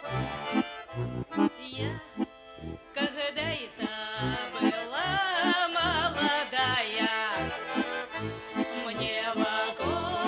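Accordion playing a Russian folk tune, a steady pulse of bass chords under a held, wavering melody, with a brief softer passage about two seconds in.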